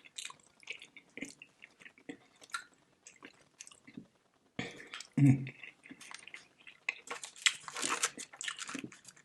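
Close-up chewing and lip-smacking on barbecue ribs: irregular wet mouth clicks and smacks, with a short hummed "mm" about five seconds in and busier chewing near the end.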